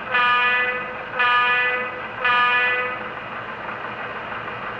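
HO scale model locomotive's sound-decoder horn sounding three blasts of just under a second each, played through the model's small onboard speaker.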